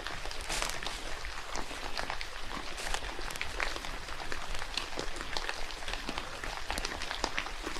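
Steady rain with a dense patter of individual drops striking close by.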